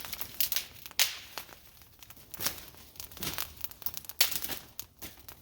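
Irregular crinkling and rustling with scattered sharp snaps, from something being handled.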